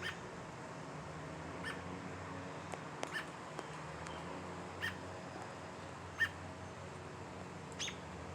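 American robin repeating short, sharp chirp calls, one about every second and a half.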